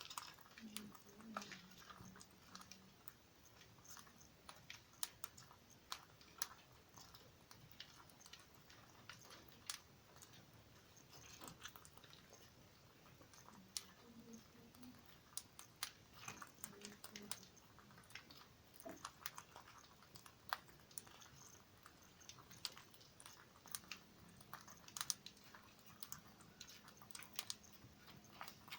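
A pet parrot eating, its beak nibbling and cracking food in a faint, irregular run of clicks and crunches.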